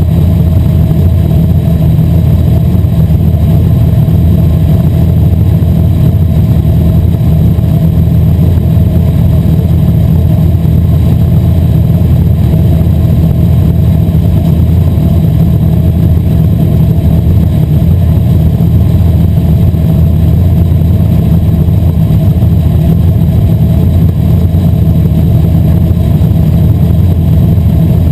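Asphalt modified race car's V8 engine running loud and steady, with no big rise or fall in pitch.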